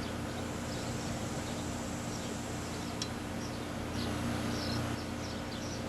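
4-ton R22 air-conditioning condensing unit running steadily, its compressor and fan giving a constant hum and rush, with faint insect chirping over it and a single light tick about three seconds in.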